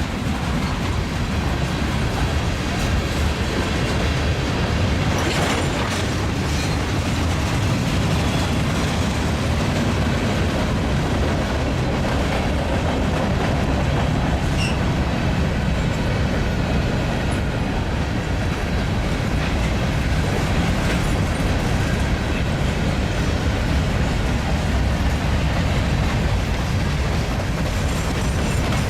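Freight train rolling past, with a steady rumble and the clatter of wheels on the rail.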